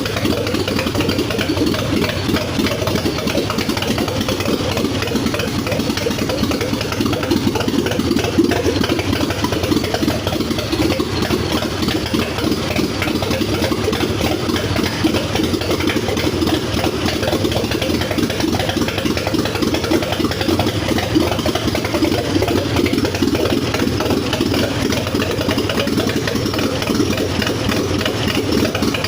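Mitsubishi Galant VR-4's twin-turbo 2.5-litre V6 running at a steady idle just after its first start.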